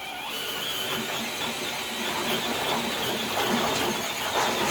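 Traxxas TRX-4 Blazer RC crawler dragging a weighted dead sled across concrete: the electric motor and gear drivetrain whining under load, mixed with the sled scraping along the concrete. The noise starts suddenly and holds steady, growing a little louder near the end.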